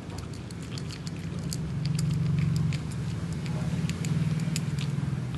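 Small irregular clicks of a cat eating, over a low steady hum that swells a little in the middle.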